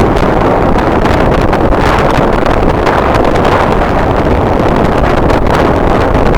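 Strong wind buffeting the microphone: a loud, steady rumbling roar of noise.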